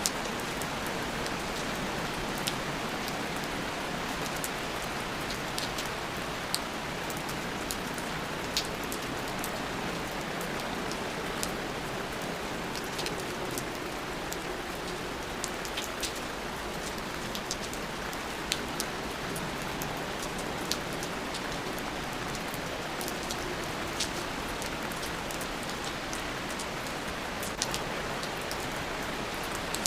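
Steady rain with individual drops ticking sharply on a surface, scattered irregularly throughout.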